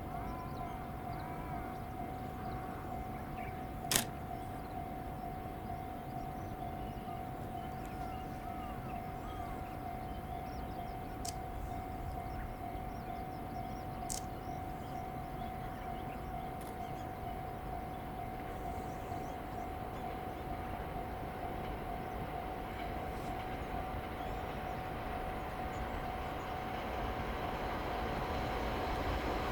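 Trackside waiting ambience: a steady high-pitched tone under a low rumble, with a few faint chirps and one sharp click about four seconds in. Near the end a train can be heard approaching, getting gradually louder.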